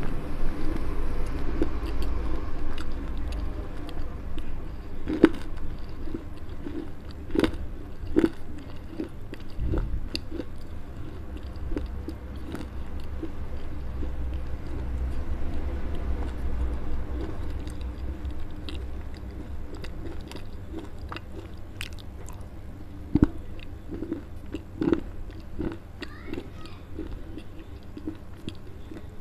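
Close-miked chewing and crunching of baked clay: irregular gritty crunches, with a few louder bites scattered through.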